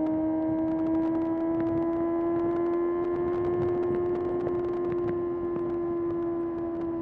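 Kawasaki ZX6R's inline-four engine running steadily under way, its note climbing slowly through the first half and then levelling off.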